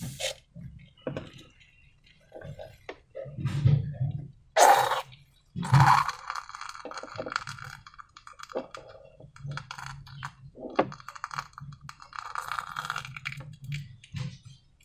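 Hands handling slime and balloons, making irregular squishing, crackling and clicking sounds, with two louder bursts about halfway through.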